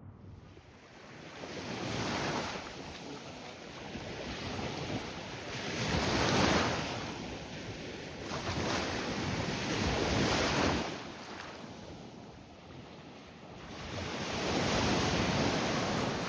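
Surf on a sandy beach: waves breaking and washing in, the rush swelling and fading four times, with wind buffeting the microphone.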